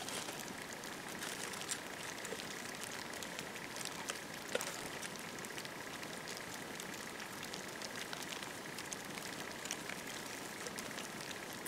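Campfire burning: a low steady hiss with scattered crackles and pops, a few louder ones about two and four and a half seconds in.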